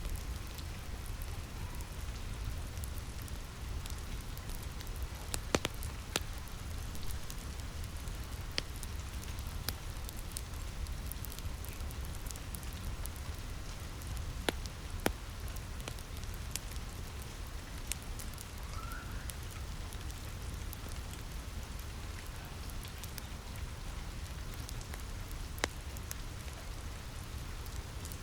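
Steady rainfall with a low rumble underneath, mixed with a wood fire crackling: a few sharp, isolated pops stand out over the rain.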